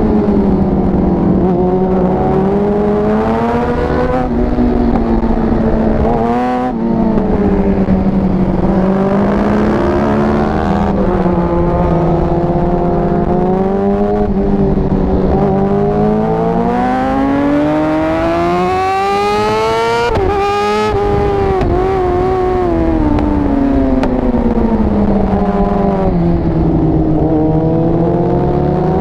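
Yamaha R6 sportbike's inline-four engine heard on board at full throttle, its pitch climbing through the gears and dropping back on the brakes, over and over. There are quick gear-change breaks about four and six seconds in, then a long climb to a high rev that drops sharply near two-thirds of the way through.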